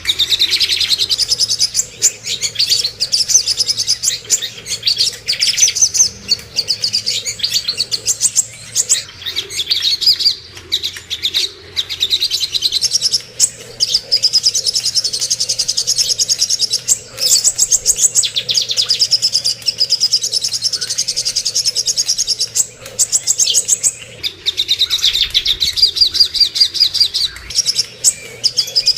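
Songbird song of the kind played as masteran for caged birds: a continuous stream of fast, high chattering and trilling notes, broken only by short pauses.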